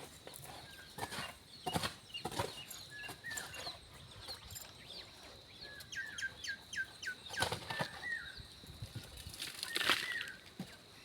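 Irregular scrapes and knocks of hand work in stony ground. A small bird chirps over them in short falling chirps, with a quick run of them about six to seven seconds in.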